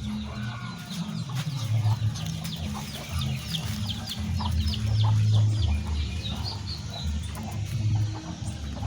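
Chickens clucking, with a long run of quick, high, falling chirps repeating several times a second.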